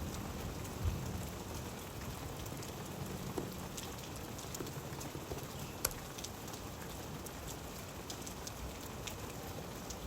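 Steady rain falling, an even hiss with scattered sharper drop ticks, a few of them louder than the rest.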